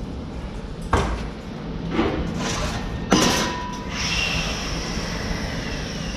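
Sheet metal brake being worked on steel strip: three sharp metal clanks about a second apart, the third loudest and ringing on briefly.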